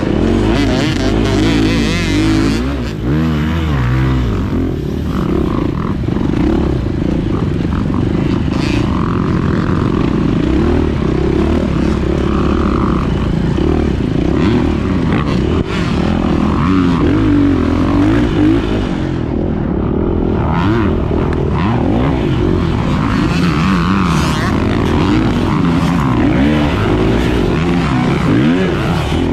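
Single-cylinder four-stroke engine of a 2024 Beta 430 Race Edition dirt bike being ridden off-road, the throttle opening and closing so that the engine's pitch keeps rising and falling.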